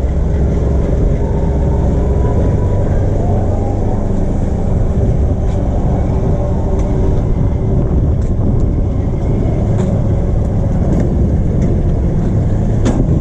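Manual-transmission car's engine running steadily with a few sharp clicks, while the driver works the clutch and gear lever and struggles to get it into first gear.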